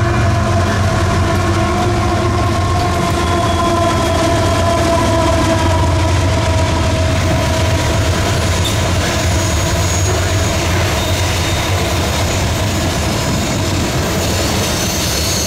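Freight train rolling past with a steady rumble of wheels on rail. Over it rings a high squeal that slowly sinks in pitch and fades about eight seconds in.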